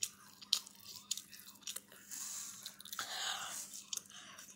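A person chewing and biting fried food close to the microphone: irregular wet mouth clicks and smacks.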